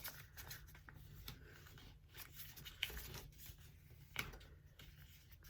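Faint rustling and crinkling of a paper sheet being folded and creased by hand, a few soft crackles over a low hum.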